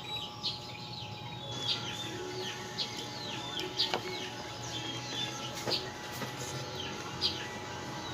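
Small birds chirping over and over in quick, short curved notes, with a faint steady hum underneath and two sharp clicks about four and six seconds in.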